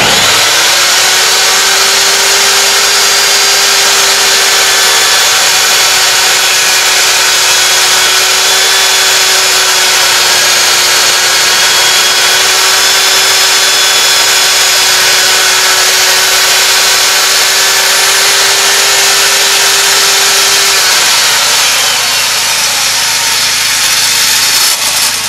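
Table saw starting up and running loudly at a steady pitch while ripping the groove off a tongue-and-groove board. About 21 seconds in, the motor is switched off and its pitch falls as the blade spins down.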